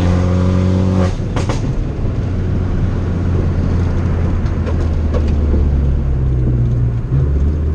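2013 Fiat 500 Abarth's turbocharged 1.4-litre four-cylinder engine under way, over a low road rumble. Its steady note drops away about a second in and is followed by a few sharp cracks. A new engine note comes in later and changes pitch abruptly near the end.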